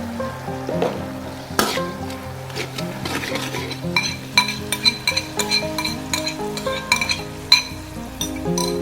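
Stir-frying in a pan: metal spatula and cockle shells clicking and clinking against the pan, with sizzling. The clinks come thick and fast through the second half.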